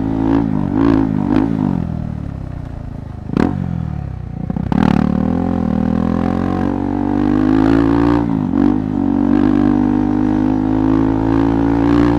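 KTM 390 Adventure's single-cylinder engine running at low revs over a rough trail. It eases off about two seconds in, with a sharp knock about three and a half seconds in and some clatter just after, then picks up again and runs steadily.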